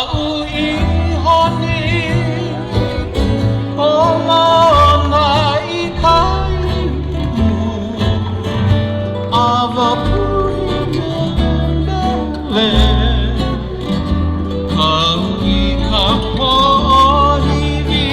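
Hawaiian song sung with vibrato over plucked string accompaniment and a stepping bass line.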